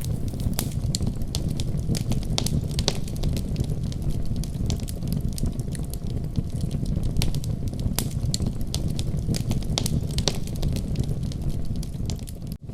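Wood fire crackling: a steady low rumble of flames with frequent irregular sharp pops and snaps, broken by a brief dropout just before the end.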